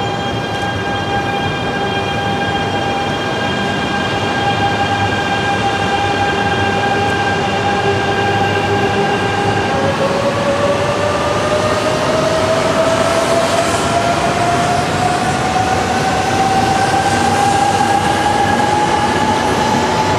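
Coupled E3- and E2-series Shinkansen trains pulling out of a station, their electric traction motors whining over the rumble of the wheels. The whine holds a steady pitch at first. About halfway through it gives way to a whine that rises steadily in pitch as the train gathers speed.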